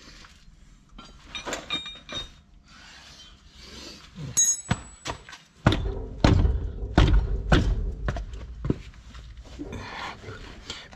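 Metal clinks and knocks of tools at work on a Ford Transit's steering tie rod end, then a run of about five heavy thuds a little over half a second apart in the second half.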